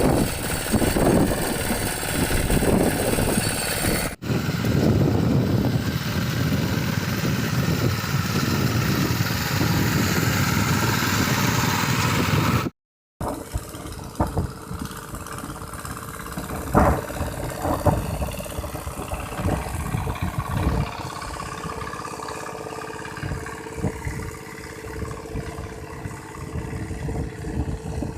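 Small power weeder engine running, across edited clips: a sudden cut about four seconds in and a brief drop to silence near the middle, with the engine quieter after it.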